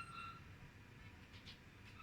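Lovebird giving a short, steady whistled contact call at the start, followed by faint ticks about a second and a half in. It is a lone bird calling for its missing mate.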